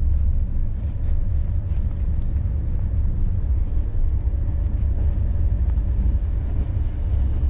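Steady low rumble of a Corail passenger coach running along the track, heard from inside the carriage.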